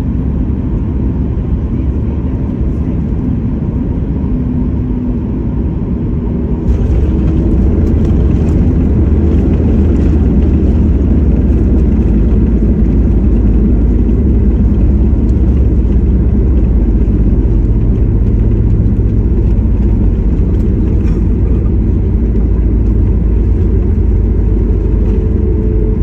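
Cabin noise inside a Boeing 737 MAX 8 on landing: a steady low rumble of engines and airflow that jumps abruptly louder about seven seconds in, with rattling, as the wheels touch down and the jet rolls along the runway.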